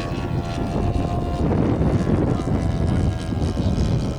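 Strong wind buffeting the microphone in a dense low rumble, with the drone of a radio-controlled model warbird's propeller fading out within the first second.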